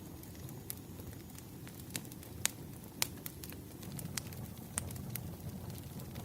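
Firewood burning, with irregular sharp crackles and pops over a low, steady rumble. The loudest pops come about two and a half and three seconds in.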